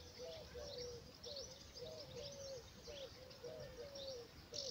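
Faint birdsong: a steady run of short, low curved notes about three a second, with higher chirps scattered over them, and a short click near the end.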